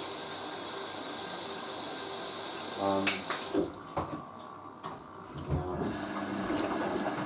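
Hoover A3060 washing machine taking in water for its rinse, a steady rush of water through the inlet that cuts off about three and a half seconds in after a brief hum and click. A low thump follows, then a steady hum with the water sound coming back near the end.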